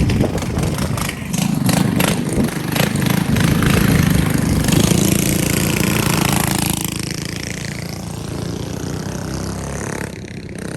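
Small mini bike engines running and revving close by, loudest through the middle and easing off about two-thirds of the way through.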